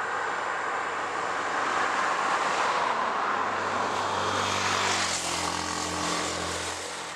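A passing engine: a broad rushing noise swells to a peak, then its tone drops in pitch and the sound fades away near the end.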